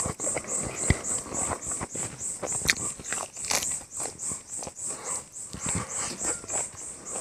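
Close-miked eating sounds: chewing, lip smacks and sharp mouth clicks as a man eats rice and pork with his fingers. Under them a high chirp repeats about three times a second.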